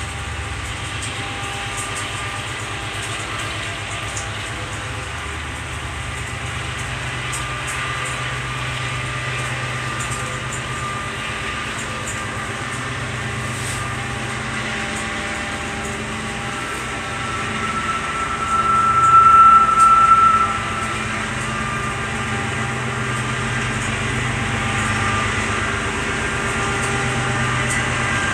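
Train passing by: a steady rumble of rail cars on the track. A high, steady squeal rises about two-thirds of the way through and is loudest for about three seconds.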